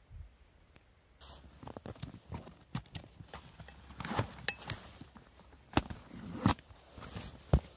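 Irregular clicks and knocks starting about a second in, with three sharper knocks near the end.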